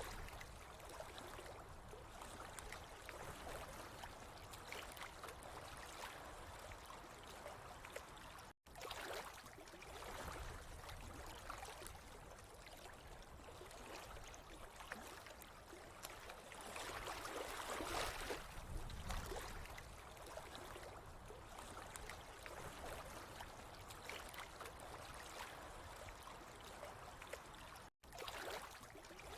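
Flowing water trickling and gurgling in a steady wash that swells and eases every few seconds, cut off for an instant twice.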